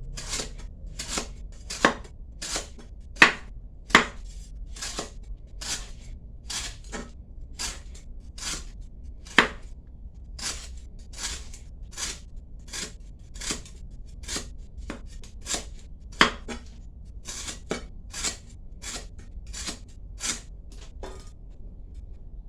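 A knife chopping food on a cutting board in steady, even strokes, a little more than one a second, stopping near the end.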